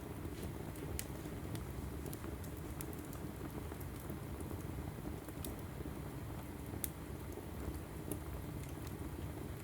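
Logs burning in a fireplace: a steady low rumble of flames with irregular sharp crackles and pops, the loudest about seven seconds in.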